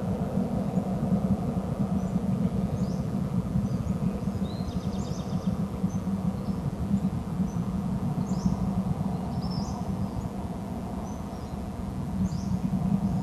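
Scattered short, high bird chirps, several quick rising notes, over a steady low outdoor rumble.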